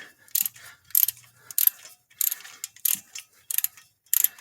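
Hand ratchet wrench with a spark plug socket clicking in short bursts, about seven in all, each one a swing of the handle while turning a spark plug.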